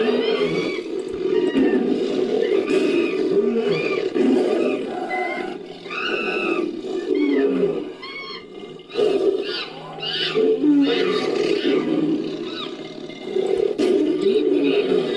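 Layered primate and monster sound effects: ape and baboon-like roars and growls under repeated high arching shrieks and hoots, forming the calls of an imaginary ape-like creature.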